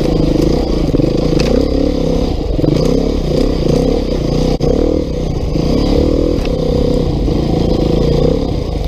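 Beta 390 RR-S single-cylinder four-stroke enduro motorcycle engine being ridden under constantly changing throttle, its pitch rising and falling. There is a brief sharp drop in the sound about halfway through.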